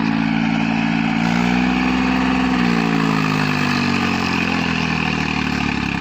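Tractor diesel engine running loud and steady; its speed climbs about a second in, then sags back down about three seconds in, as the engine takes up the load.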